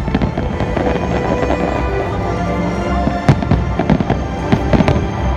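Aerial fireworks shells bursting with sharp bangs over loud music, with a run of several bangs in the second half.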